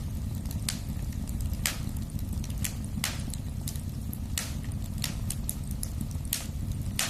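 Wood fire burning in a fireplace: a steady low rumble of flames with sharp, irregular crackles and pops from the burning wood, about one or two a second.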